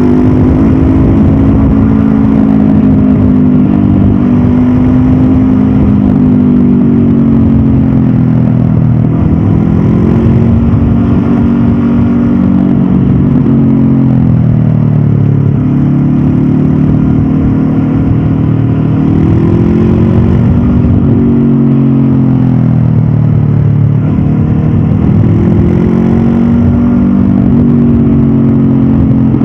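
A stock 2022 Honda CB500F's parallel-twin engine pulling and easing off on the road, its pitch repeatedly rising and falling through the gears. It drops to its lowest about halfway through, then climbs again.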